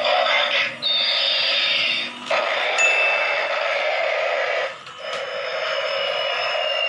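Electronic jet-engine sound effect from a toy airplane's small speaker: a steady hiss with no low end, a falling whistle about a second in, and a steady high beep-like tone from about three seconds in. The sound cuts out briefly twice, just after two seconds and near five seconds.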